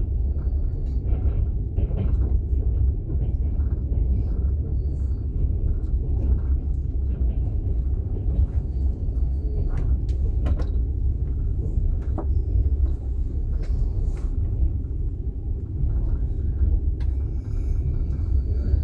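Passenger train running, heard from inside an open-plan sleeper carriage: a steady low rumble of wheels on the rails, with scattered clicks and knocks.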